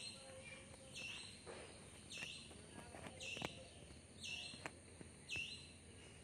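A bird repeating one short high chirp about once a second, with a few faint clicks in between.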